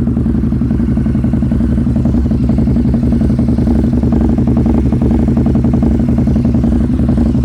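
2013 Harley-Davidson Night Rod Special's 1250cc liquid-cooled V-twin running at a steady idle through an aftermarket 2-into-1 exhaust header.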